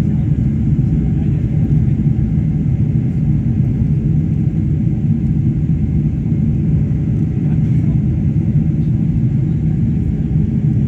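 Boeing 747-400 airliner cabin noise after takeoff: a steady low rumble of the jet engines and airflow heard from inside the cabin.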